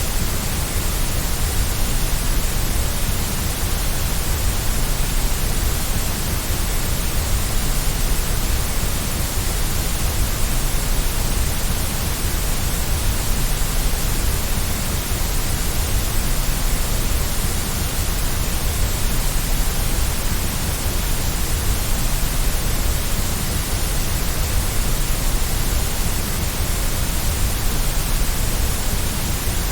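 Steady, unchanging white noise, a constant hiss with a deep rumble beneath it.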